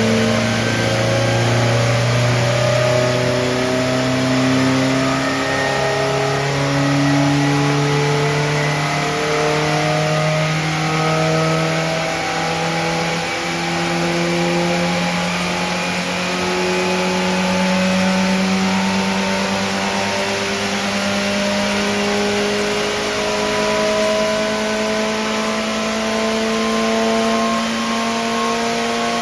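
750 Formula racing car's newly built engine running under load on a rolling road, its revs climbing slowly and steadily in small steps, as in a dyno power run.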